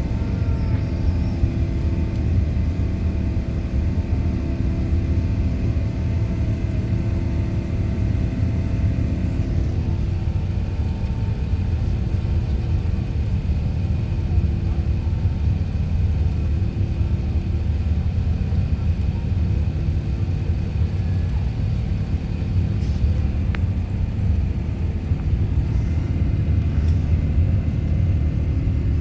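Emirates Airbus A380-861's four Engine Alliance GP7200 turbofans at takeoff power, a loud, steady low rumble. The higher engine tones in it fade after about ten seconds while the rumble carries on.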